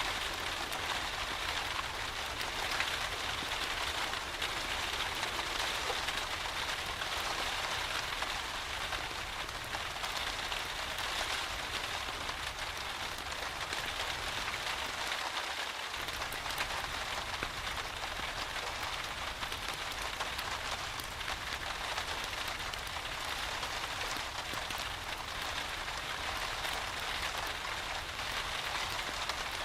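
Steady rain falling: an even hiss full of small, close-set drop ticks.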